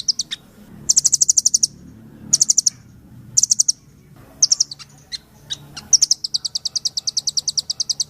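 Songbird trilling: fast, high, evenly pulsed trills of about a dozen notes a second. In the first half they come in short bursts with brief single chips between them, then one long steady trill starts about six seconds in.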